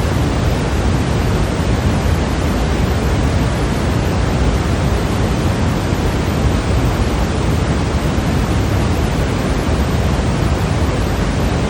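Steady, unchanging generated white noise, an even hiss with more weight in the low end than the high.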